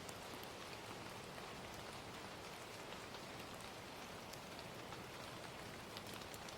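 Steady gentle rain ambience, with scattered faint crackles from a fire.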